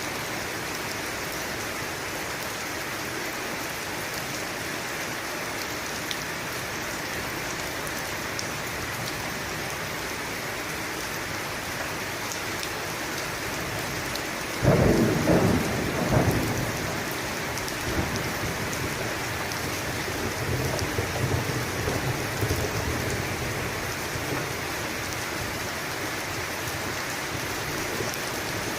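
Steady rain falling, with a sudden loud thunderclap about halfway through that rolls on for a couple of seconds, followed by softer, low thunder rumbling a few seconds later.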